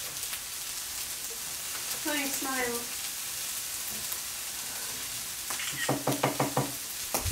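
Fried rice sizzling on a hot electric griddle while it is stirred and scraped with a spatula.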